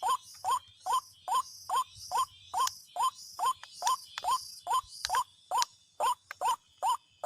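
White-breasted waterhen (ruak-ruak) call: short rising notes repeated at an even pace of a little over two a second, with a high insect buzz behind them.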